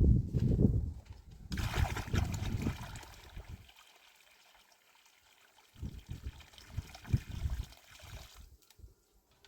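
Water pouring in a steady trickle, starting about a second and a half in and stopping sharply near the end. There are dull low knocks at the start and again partway through.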